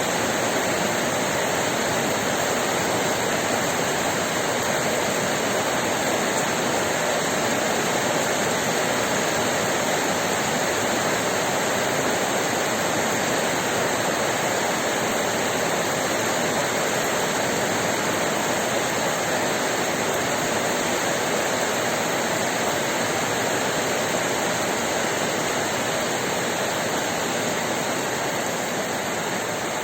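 Heavy rain pouring down in a steady, even rush of noise.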